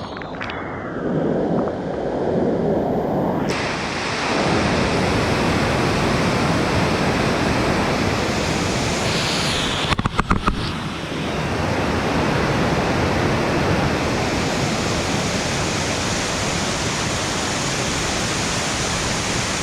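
Waterfall rushing, a steady, noisy spray of falling water that swells over the first few seconds and then holds. A quick cluster of clicks comes about halfway through.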